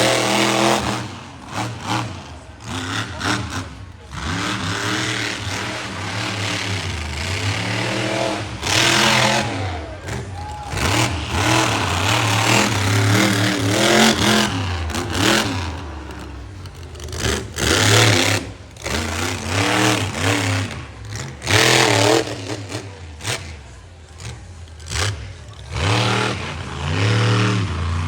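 Monster truck engine revving hard and easing off again and again, its pitch rising and falling, with several louder full-throttle surges.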